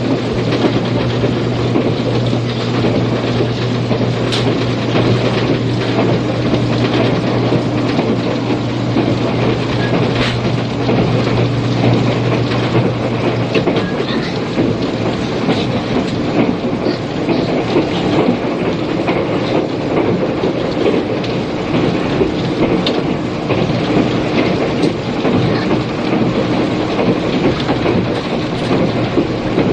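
Cabin running noise of a 485-series electric limited-express train on the move, off an old cassette tape: a steady rumble of wheels and motors with an occasional click from the rail joints. A steady low hum runs under it and stops about halfway through.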